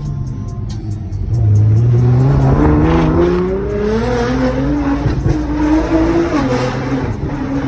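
Sports car engine and exhaust accelerating hard. The note climbs steadily in pitch for about three seconds, then levels off and drops near the end as it changes gear.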